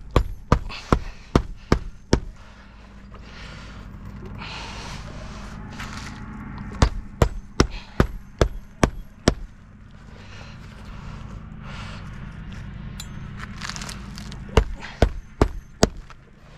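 Hammer driving roofing nails into a shingle: three runs of quick, sharp blows, six or seven strikes each, at the start, about seven seconds in, and near the end.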